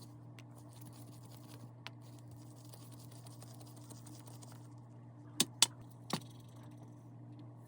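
Light scratching and tapping of small objects being handled over a steady low hum, with three sharp clicks, two close together about five and a half seconds in and one more half a second later.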